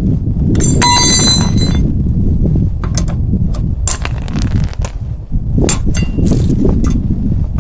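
Metal clinking and a short ringing, bell-like tone, then a few sharp knocks, typical of tools and wheel parts being handled during a tyre change, over a steady low rumble.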